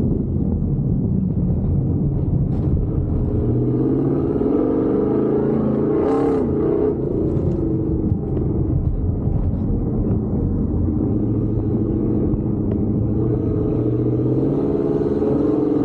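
A Gen 1 Ford Raptor's V8 engine is driven hard around a dirt track, its pitch rising and falling as the throttle is worked. About six seconds in there is a brief rush of noise.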